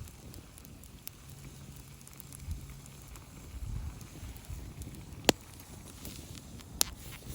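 Wood fire crackling, with a few sharp isolated pops; the loudest comes about five seconds in.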